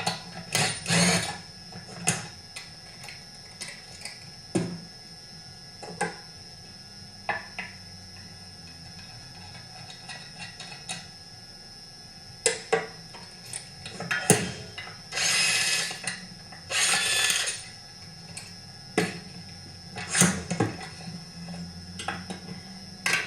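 Hand tools and metal chainsaw parts being handled during disassembly: scattered clicks, taps and knocks. Past the middle come two loud bursts of a steady rushing, whirring noise, each about a second long.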